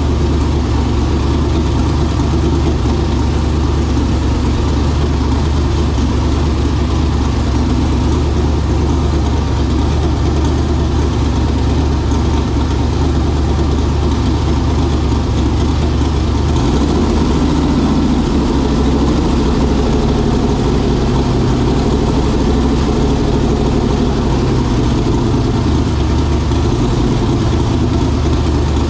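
Twin-turbocharged engine of a Mercury Zephyr idling steadily on its first start-up, the idle note shifting about halfway through and wavering for a moment near the end.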